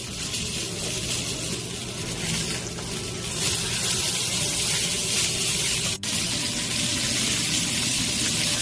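Flour-dredged chicken pieces sizzling in hot oil as they pan-fry. The steady sizzle gets louder about three seconds in and drops out for a split second about six seconds in.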